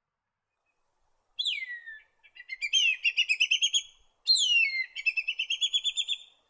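Whistling kite calling twice: each call is a long descending whistle followed by a rapid run of short rising whistles, the first starting about a second and a half in and the second about halfway through.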